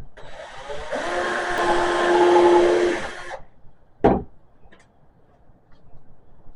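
Power drill boring into a cedar board: the motor spins up with a rising whine, runs steadily for about three seconds and stops suddenly. About a second later comes a single sharp knock.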